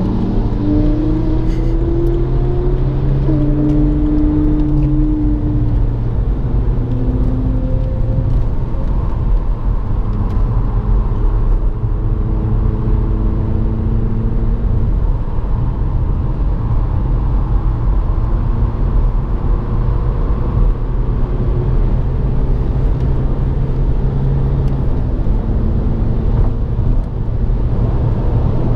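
BMW 116i F20's stock petrol engine heard from inside the cabin, pulling hard under full acceleration. Its pitch rises in the first few seconds, over steady tyre and road rumble.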